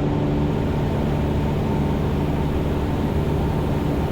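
Cessna 172's piston engine and propeller droning steadily in flight, an even hum with no change in pitch.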